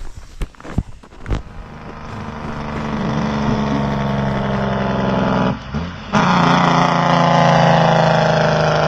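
A vehicle's engine running under load, building up over the first few seconds, dropping away briefly about five and a half seconds in, then pulling again louder and steady. A few sharp knocks come in the first second and a half.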